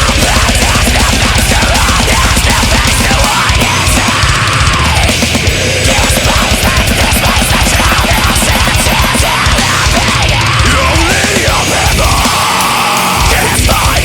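Heavy metal track: fast, driving low drums and distorted guitars, with a lead guitar line bending and sliding above them.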